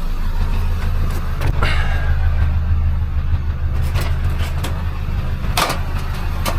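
A vehicle engine running with a steady low rumble, with a few short knocks and rattles over it.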